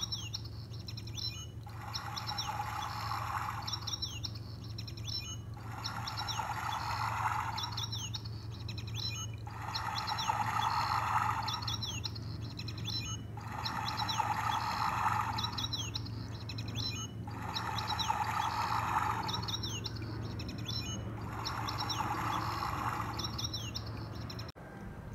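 Birds chirping in quick high calls, alternating with a rushing swell about every four seconds in a regular repeating cycle, over a steady low hum; the sound cuts off abruptly near the end.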